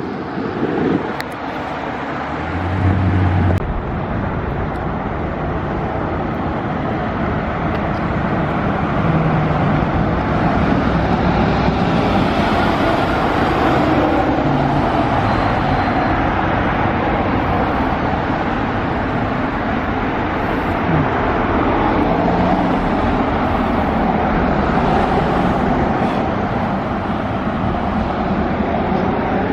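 A vehicle running with steady mechanical and road noise, and a brief low hum two to three seconds in.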